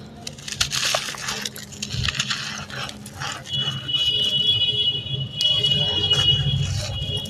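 Dry sand-cement chunks being crushed and crumbled, a dense crunchy crackling in the first three seconds. From about halfway through, a steady high-pitched whine joins in and holds.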